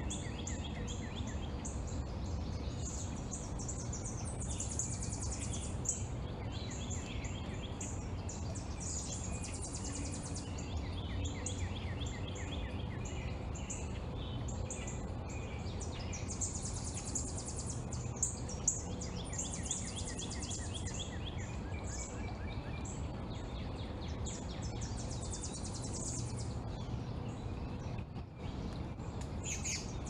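Several small birds chirping and singing in repeated quick high phrases over a steady low rumble of background noise.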